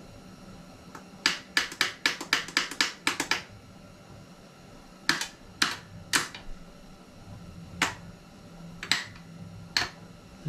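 A quick run of about ten sharp clicks, then six single clicks at irregular gaps of about a second.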